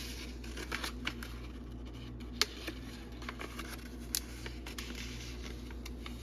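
Paper sheets being handled and peeled: scattered light rustles and crackles, with two sharper clicks about two and a half and four seconds in, over a low steady hum.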